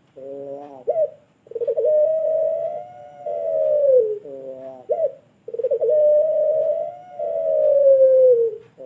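Puter pelung (domestic collared dove) cooing. It gives two long drawn-out coos, each opened by a short note and a quick upward flick. Each coo holds its pitch for a couple of seconds, then slides down at the end.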